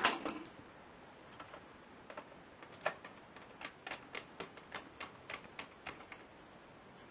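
Sharp clicks from a laptop being worked on by hand: a clatter at the start, a few scattered clicks, then a quick run of about a dozen clicks, roughly three a second, that stops about a second before the end.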